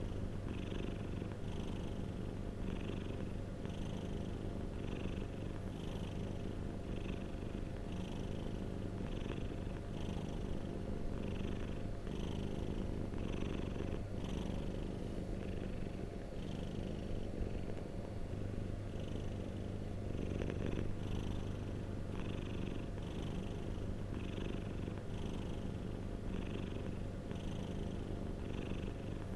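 Domestic cat purring steadily, close up, with a regular pulse a little over once a second.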